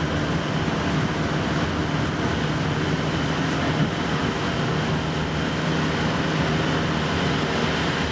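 Steady road noise of a camper van driving through a road tunnel, heard from inside the cab: tyre rumble and engine hum, holding even.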